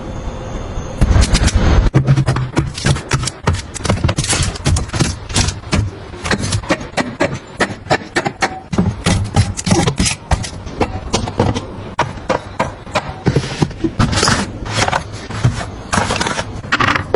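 Rapid clattering of items being handled and set down while restocking: a dense, uneven run of sharp clicks and knocks, several a second, starting about a second in.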